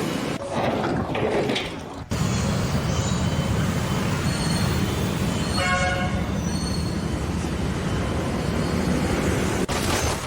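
Steady low rumble of a heavy vehicle or machine, with a short horn toot about six seconds in.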